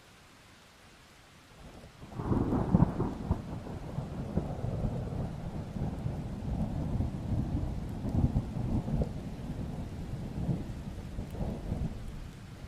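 Thunder over light rain: a peal breaks in about two seconds in, loudest just after it begins, then rolls on as a low rumble for about ten seconds and fades near the end.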